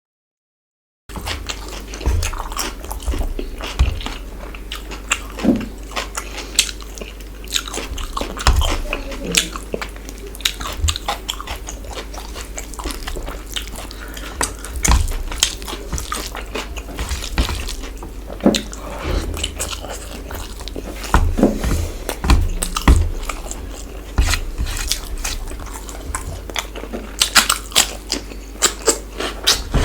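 Close-miked chewing and biting of chicken masala and rice, with wet mouth clicks and occasional crunches. The sound cuts in after about a second of dead silence.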